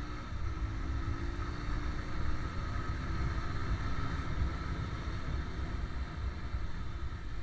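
Motorcycle engine running while riding, with steady wind rumble on the microphone.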